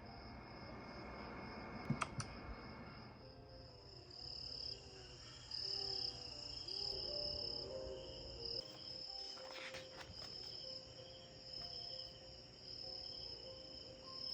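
Recorded cricket chirping from a relaxation sound app: a steady, pulsing high trill over soft, low music tones. Two sharp clicks about two seconds in, and another near ten seconds.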